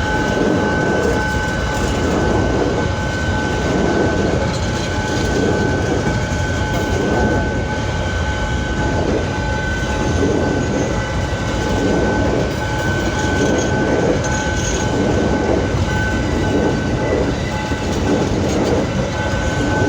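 Freight train rolling past, wagons rumbling steadily over the rails with a regular beat of wheel pulses about every second and a half, and a steady high-pitched tone above.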